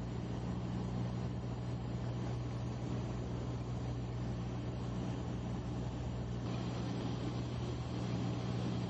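Steady drone of an aircraft's engine: a low hum holding one pitch over an even rush of noise.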